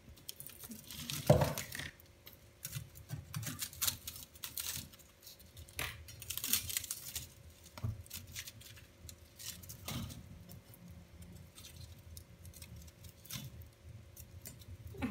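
Wood fire in a fireplace crackling and popping, with irregular sharp snaps and short spells of hissing. One louder brief sound comes about a second in, and a faint steady hum runs underneath.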